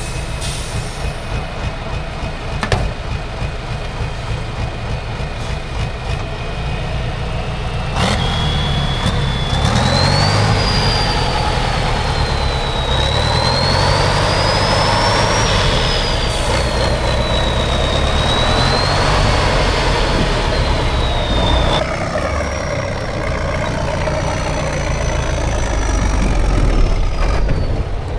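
Heavy trial truck's diesel engine working under load, its revs rising and falling, with a high whine that rises and falls along with it. The sound gets abruptly louder about eight seconds in and changes abruptly again about twenty-two seconds in.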